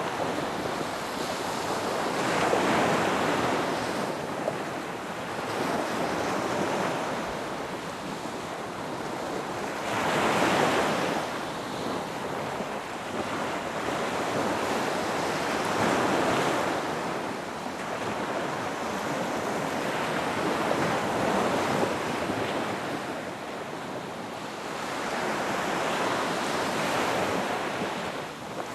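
Ocean surf on a beach: waves breaking and washing in, the rush swelling and easing about every five or six seconds.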